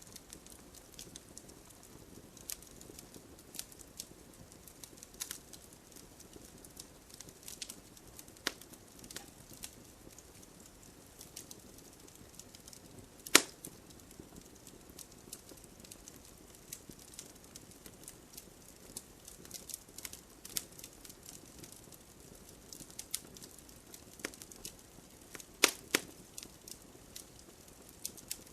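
Campfire crackling: irregular small pops and snaps of burning wood over a soft hiss, with one loud snap about halfway through and a few sharper pops near the end.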